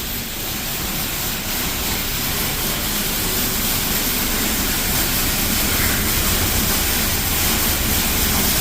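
Mark VII Aquajet XT touchless car wash spraying high-pressure water over the car: a steady hiss of jets that grows slowly louder.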